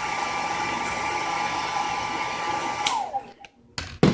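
Hair dryer blowing steadily with a high whine, then switched off about three seconds in, its whine falling as the motor winds down. A sharp knock follows near the end.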